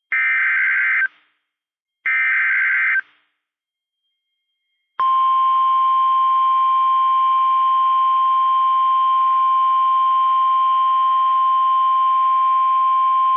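NOAA Weather Radio alert signal: two one-second warbling SAME data bursts about a second apart, then, about five seconds in, the steady 1050 Hz warning alarm tone, which announces a severe thunderstorm warning.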